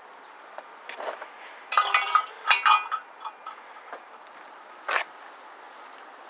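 Several sharp metallic clinks and rattles with a short ringing tone, bunched about two to three seconds in, and one more clink near five seconds, over a steady outdoor hiss.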